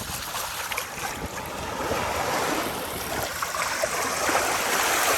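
Sea surf washing in a steady rush of waves, growing louder toward the end.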